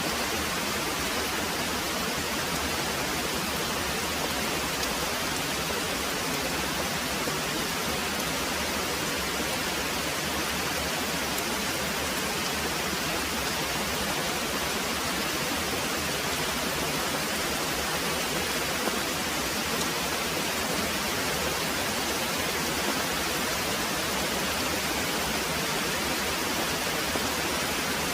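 Very heavy rain pouring steadily, a dense even hiss with no breaks or single drops standing out.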